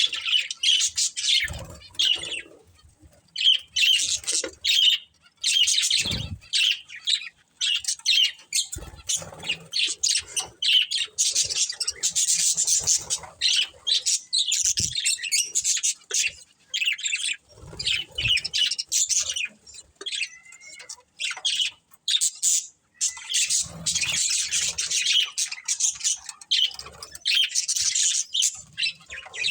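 A pair of budgerigars chirping and squawking in rapid, dense bursts with short pauses, along with a few brief low thumps.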